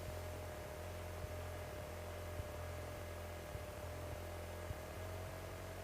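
Faint steady hum and hiss of a cockpit intercom/headset audio feed, with a thin steady tone above it and an occasional tiny click.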